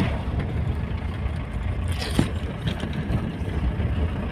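Steady low rumble of a moving vehicle, with a few faint knocks and rattles.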